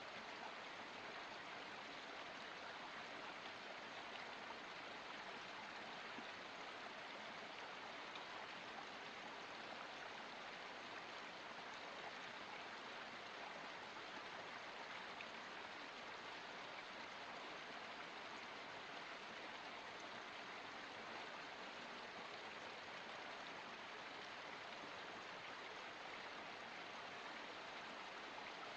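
Water of a forest spring flowing in a steady, even rush, with no separate splashes or drips standing out.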